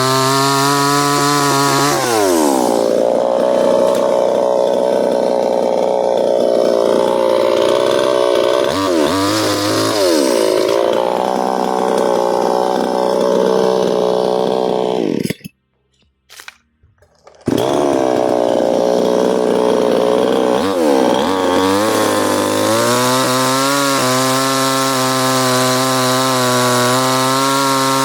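New West 598 two-stroke petrol chainsaw at high revs whose pitch drops about two seconds in, as if it bites into wood, and stays there unsteadily. The sound cuts out for about two seconds midway. It then comes back, revs up, dips again and settles into a steady run.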